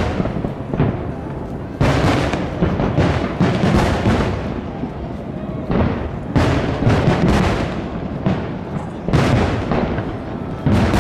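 Aerial firework shells bursting one after another, a series of booms each trailing off in a rumbling echo, several of them coming close together.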